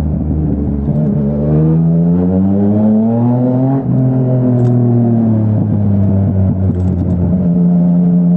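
2017 Yamaha Tracer 900's 847 cc inline-three engine through a Dominator HP3 full exhaust system, pulling under acceleration with its note rising. About four seconds in the pitch drops sharply at a quick upshift, then the engine eases off and holds a steady cruising note.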